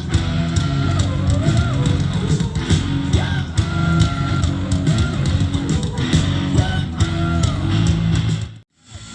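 A rock band playing live with distorted electric guitars and steady drum hits. The sound cuts out completely for about half a second near the end, then comes back.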